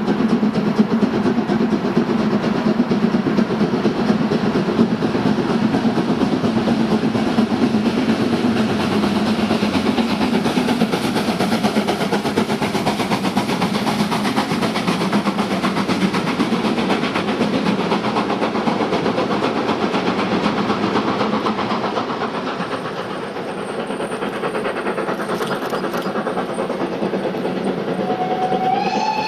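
Steam train running with a steady hiss, rumble and rail clatter that eases off about three quarters of the way through. A steam whistle starts to sound near the end.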